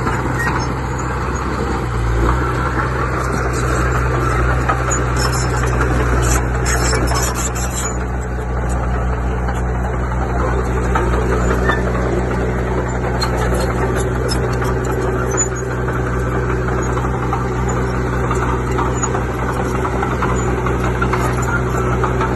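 Heavy-equipment diesel engine running steadily, pulling harder about two seconds in, with scattered high metallic clatter.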